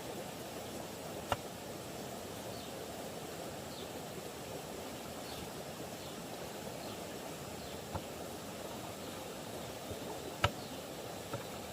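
Steady background noise with four sharp knocks, the loudest about ten and a half seconds in, and faint short high chirps repeating about once a second.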